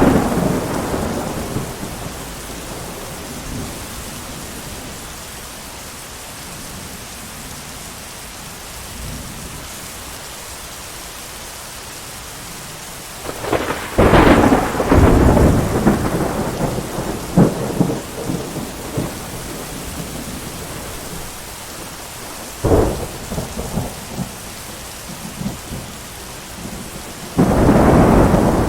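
Thunderstorm: steady rain with repeated thunder. A peal fades at the start, a long loud rolling peal comes about halfway through, a short sharp clap follows a few seconds later, and another loud clap breaks near the end.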